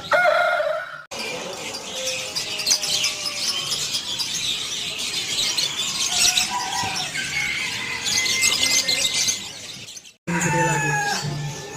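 A chorus of many small songbirds chirping and twittering at once, dense overlapping short high calls. Background music is heard briefly at the start and again near the end, with sharp cuts between.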